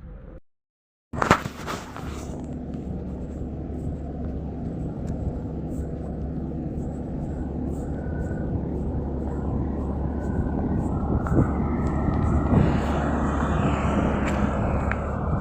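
Steady low rumble of a heavy engine or vehicle, growing gradually louder, with a sharp knock about a second in just after a brief drop-out.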